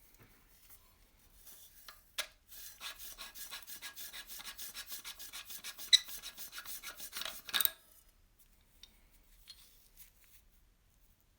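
Fast, even back-and-forth hand scraping or filing on the rusty metal of an old oil lamp, several strokes a second, lasting about five seconds. It starts with a click about two seconds in and has one sharp knock near the middle.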